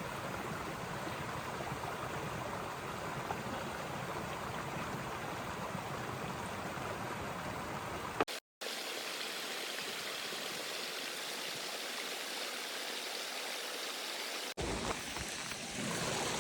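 Stream water running steadily over rocks. The sound cuts out briefly about eight seconds in and returns thinner, without its low rumble, then changes again abruptly near the end.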